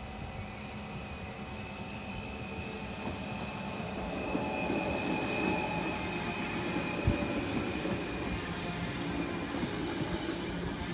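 Arriva passenger train passing over a level crossing, its wheel and rail noise building from about three seconds in and staying loud as the cars go by, with a single sharp click about seven seconds in. The crossing's warning bells ring steadily throughout.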